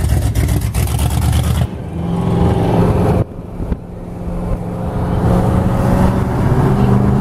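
Car engines running across quick cuts: a deep, pulsing engine rumble, an abrupt change about a second and a half in, a brief dip about three seconds in, then a steady engine sound growing louder toward the end.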